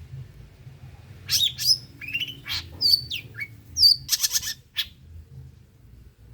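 Long-tailed shrike (pentet) singing: a string of sharp, high chirps, most of them falling in pitch, ending in a fast rattling burst, then it stops.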